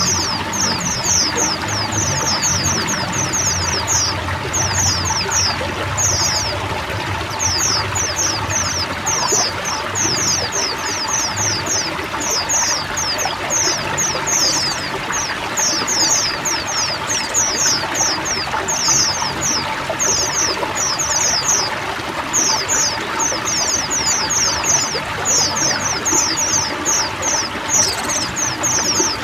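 Pleci (white-eye) singing long runs of rapid, high, falling notes, with a couple of short pauses, over the steady sound of running water.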